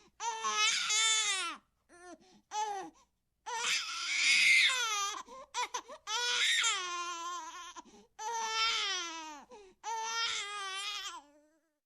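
Baby crying: a string of high, wavering wails of one to two seconds each, broken by short sobbing catches, the loudest about four seconds in.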